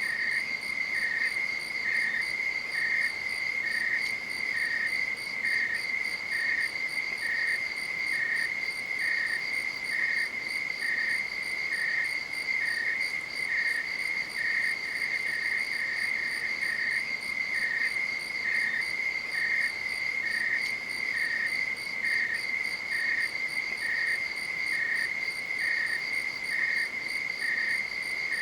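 Night insects chirring: one steady high trill, with a second insect chirping at a slightly lower pitch about once a second.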